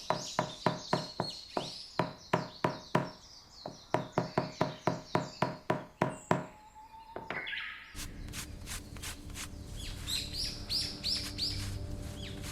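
Rapid rhythmic knocking, about four sharp strikes a second in runs with short breaks, with birds chirping. The knocking stops about six and a half seconds in, and music with steady low held tones comes in about eight seconds in, the birds still chirping over it.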